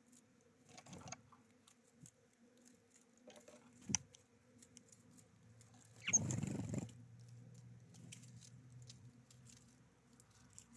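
Small birds at a feeder: scattered light taps and pecks, with a sharp knock about four seconds in and a brief, louder rustle a little after six seconds, over a faint steady hum.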